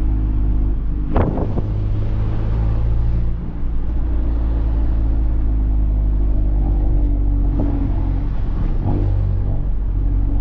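Tuned Volkswagen Golf R's turbocharged four-cylinder engine running at a steady pace while driving, with road rumble. A single sharp knock about a second in, and a brief drop in level a little over three seconds in.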